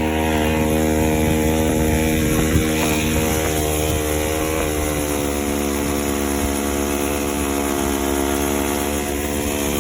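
Small two-stroke weed eater engine driving a friction-drive bicycle, running steadily at high revs while the bike is ridden.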